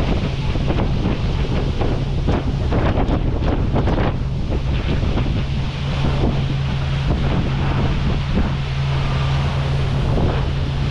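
Wind buffeting the microphone on the deck of a moving tour boat, with rushing water and the boat's engine as a steady low hum underneath.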